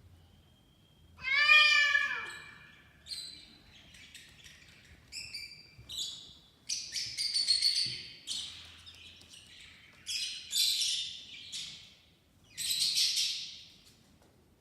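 A cat gives one drawn-out meow about a second in, falling in pitch at the end. It is followed by a magpie's run of short, high calls in clusters, with pauses between them.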